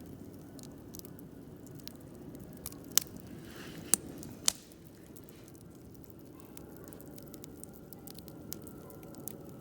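Wood campfire burning with a steady low rumble and frequent small crackles, with three sharp loud pops about three to four and a half seconds in and a brief hiss among them.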